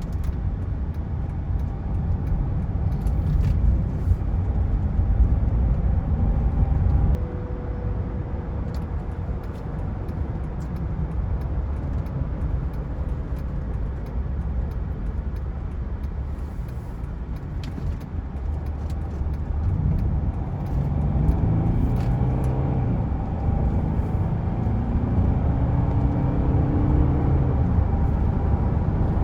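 Mercedes-Benz E320 Bluetec's OM642 3.0-litre V6 turbo diesel driving on the road, with a steady low drone and road noise that drops a notch about seven seconds in. From about two-thirds of the way in, the engine note climbs and falls back several times as the car accelerates through the gears.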